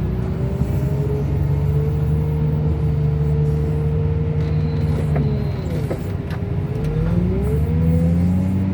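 Car crusher's engine running at high throttle under hydraulic load while crushing a bundle of cars; its pitch sags briefly about six seconds in, then climbs back up.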